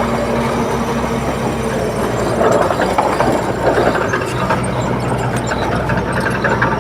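A bulldozer's heavy diesel engine running steadily, with scattered metallic clanks and rattles from about two seconds in.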